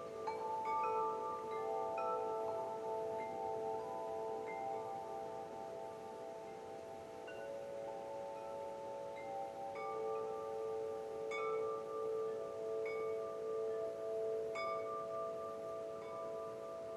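Wind chimes ringing softly, struck now and then, with several pitched tones overlapping and each held for seconds at a time.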